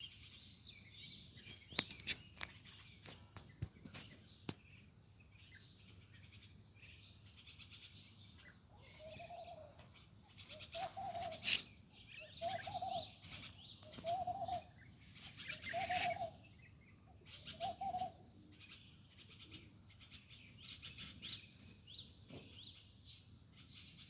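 Pet parrot chirping and twittering in high, quick notes, with a run of six short, lower calls about a second and a half apart in the middle. A few sharp clicks in the first few seconds.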